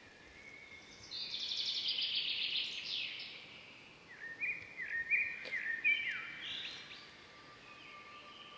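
Birdsong: a fast, high trill lasting about two seconds, then after a short pause a run of brief chirps, each sliding down in pitch, over faint outdoor background noise.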